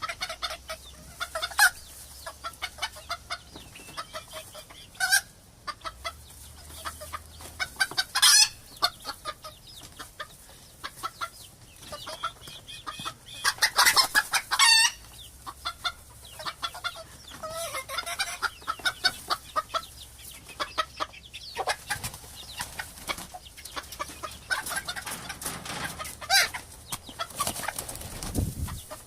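Chickens clucking in a steady run of short, rapid calls, with a few louder, longer calls standing out, most strongly about halfway through.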